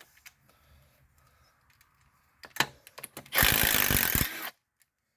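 A few sharp clicks of tools being handled, then an impact wrench hammering for about a second on an engine bolt and stopping abruptly.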